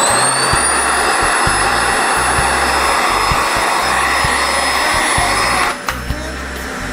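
Vacuum cleaner motor running with a loud rushing sound and a high whine that climbs and settles to a steady pitch in the first second or so. Near the end it suddenly drops to a lower, thinner rush.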